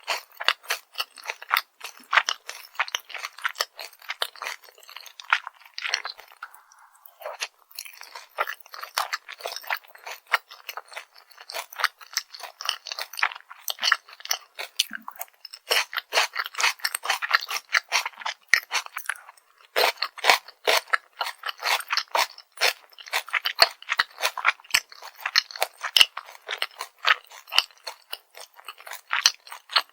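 Close-miked chewing of crispy fried food, dakgangjeong or cheese balls: rapid, continuous crisp crunches, easing off briefly twice.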